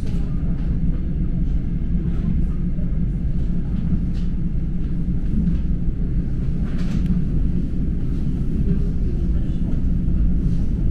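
Electric commuter train running at steady speed, heard from inside the carriage as a constant low rumble.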